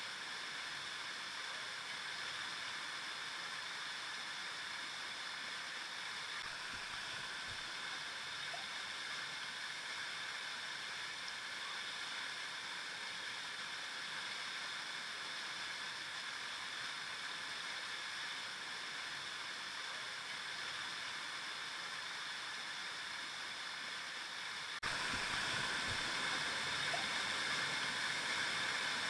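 River water flowing with a steady rushing and gurgling. About 25 seconds in it abruptly gets louder and stays louder.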